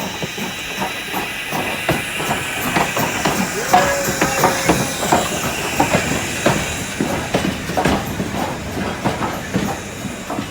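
Steam locomotive, the 2-10-0 No. 90, moving slowly with a steady hiss of steam and many irregular metallic clanks and knocks from its running gear and the rails. A brief squeal comes about four seconds in.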